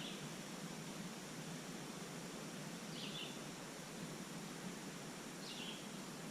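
A steady hiss of outdoor background noise, with a short high bird call repeated three times, about every two and a half to three seconds.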